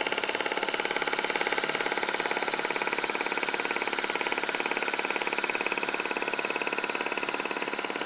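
Small Stevens Model Dockyard marine steam engine, 5/8 in bore and stroke, running steadily at speed with a rapid, even exhaust beat and a hiss of steam, freshly oiled through its exhaust.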